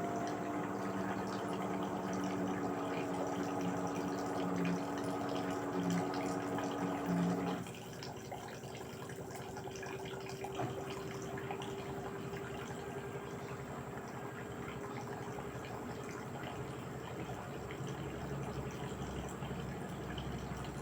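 LG 8 kg direct-drive washing machine mid-cycle, water moving through it with a steady pump-like hum. The hum cuts off abruptly about seven seconds in, leaving a quieter, single-pitched hum and trickling water.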